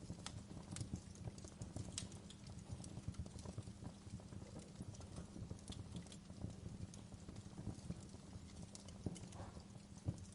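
Campfire burning, with irregular crackles and sharp pops of the wood over a steady low rumble.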